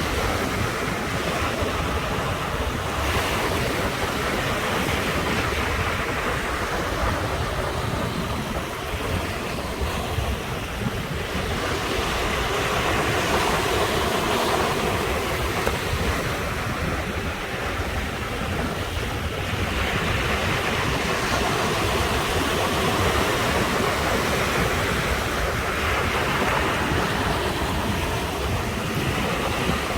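Ocean surf breaking and washing ashore, a continuous hiss that swells and eases every several seconds over a steady low rumble.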